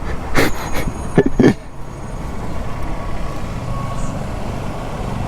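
A vehicle engine running steadily with a low hum. A few short sharp sounds come in the first second and a half.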